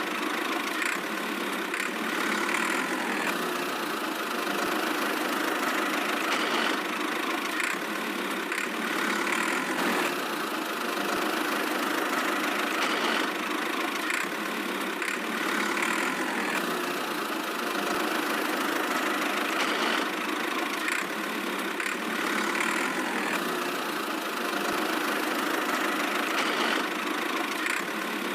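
Tractor engine sound running steadily at idle. Its pattern repeats every few seconds, like a looped sound effect, and it has little deep bass.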